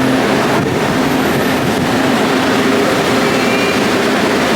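A train running with a loud steady rumble and a steady low hum, with a faint high whine for a moment about three seconds in.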